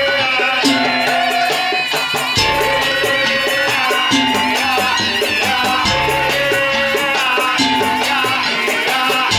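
Madurese daul (tong-tong) ensemble music playing loudly: fast, dense percussion carrying a melody of long held notes that step from pitch to pitch.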